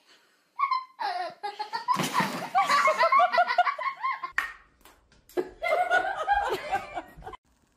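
People laughing, in two stretches: one from about a second in until just past halfway, then, after a short break, another near the end.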